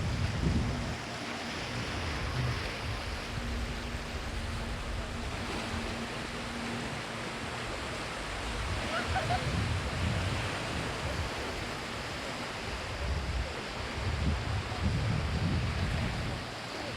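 Surf washing onto a sandy beach, with wind gusting on the microphone. A faint steady low hum runs under it for the first several seconds.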